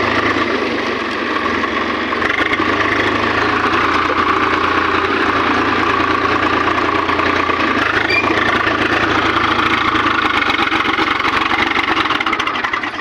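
Tractor diesel engine running steadily and loudly, cutting off suddenly at the end.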